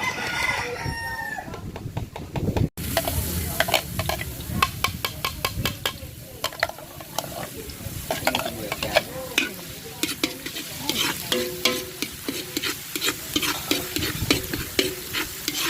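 Pansit noodles being stir-fried in a pan over a steady sizzle, with a metal spatula clinking and scraping against the pan over and over as the noodles are stirred.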